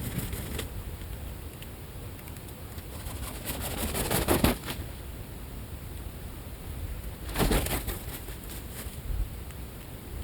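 Birds feeding, with two bursts of rapid wing flapping and scuffling, about four seconds in and again near eight seconds, over a steady low rumble.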